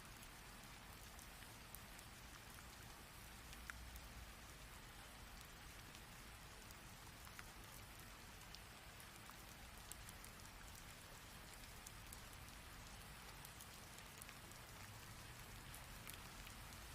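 Heavy rain falling steadily, faint, with many separate drops ticking sharply against the wash of rainfall.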